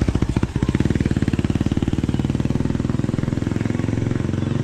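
Small vehicle engine running steadily, a rapid even putter of firing pulses.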